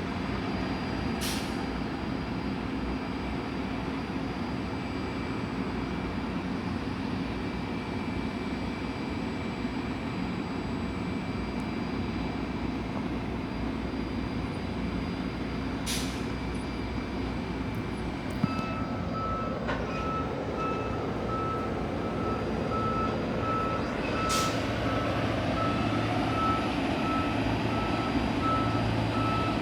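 Steady low engine rumble, joined about two-thirds of the way in by a vehicle's reversing alarm beeping at an even rate; the rumble grows louder toward the end.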